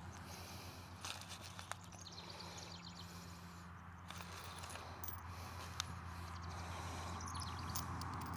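Faint scattered clicks and light knocks of metal mount parts and bolts being handled and fitted, with a quick run of small ticks a little past two seconds, over a steady low hum.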